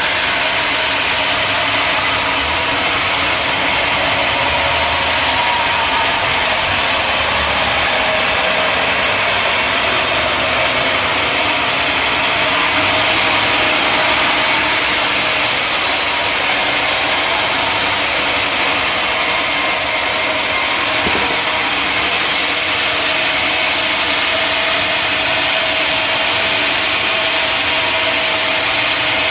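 Sawmill machinery running steadily, a continuous loud engine-like drone with a broad hiss and no break or change.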